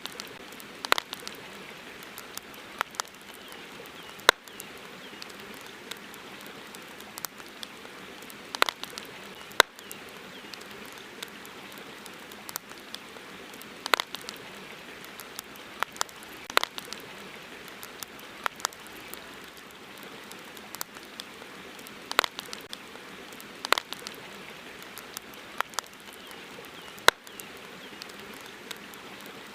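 Campfire crackling: irregular sharp pops and snaps, some single and some in quick clusters, over a steady hiss.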